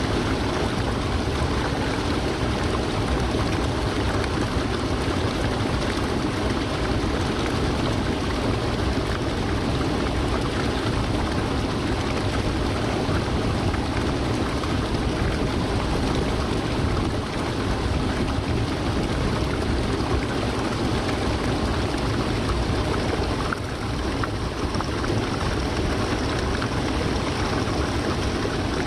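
Waterfall: a steady, full rush of falling water, strong in the low end.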